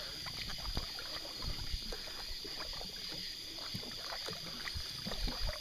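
Canoe paddles dipping and knocking in the water with soft splashes and drips as the canoe is paddled, over a steady high chorus of night insects.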